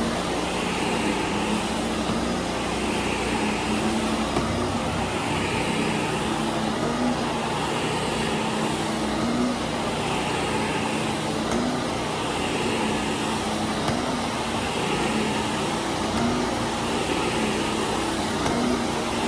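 Upright vacuum cleaner pushed back and forth over carpet. Its steady motor drone swells and dips about once a second with each stroke, over the steady rush of a power washer running in the background.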